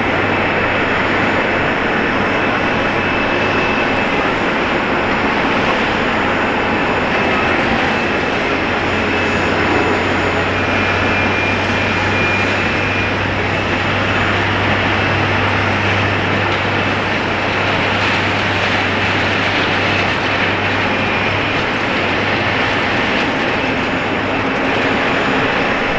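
Jet airliner engines running steadily, a continuous loud rushing noise with a low hum underneath that holds level throughout.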